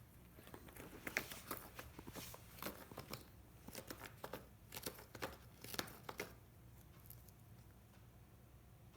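A cat playing with a toy: a quick run of rustling, scratching and tapping noises that stops after about six seconds.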